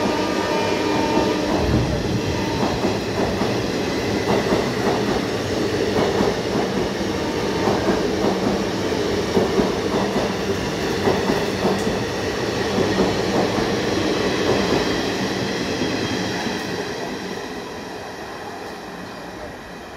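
Indian Railways express train passing at speed, its coach wheels clattering over the rail joints. The end of a horn blast sounds in the first second, and the noise fades away near the end as the last coach draws off.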